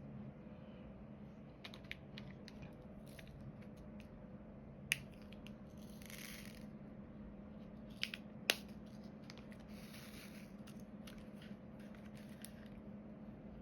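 Diamond painting work: small, sharp clicks and taps of plastic resin drills and tools being handled and pressed onto the canvas, with two brief rustling swishes, over a faint steady hum.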